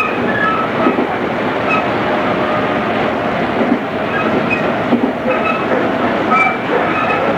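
Running sound inside a JR East 211 series electric train, recorded on cassette tape: a steady rumble of wheels on rail, with a few sharp clicks and scattered brief high squeaks.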